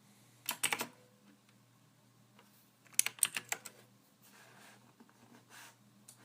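Soft computer keyboard typing in short bursts: three or four keystrokes about half a second in, a quicker run of about six keystrokes around three seconds in, then a few faint taps.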